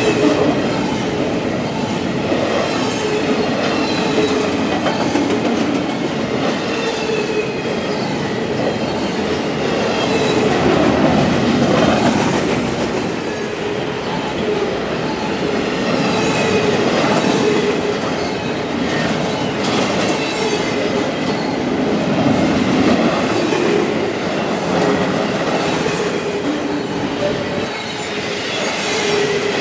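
Double-stack container well cars of a Norfolk Southern intermodal freight train rolling past at speed: a steady roar of steel wheels on rail, with occasional clicks and thin, drifting wheel-squeal tones.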